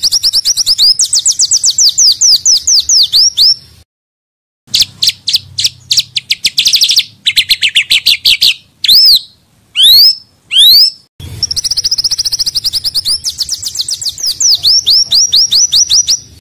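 Small songbird singing dense, fast trills of sharp repeated high notes. The trills break off briefly near 4 s and again near 11 s, and a few separate rising whistles come between about 9 and 11 s.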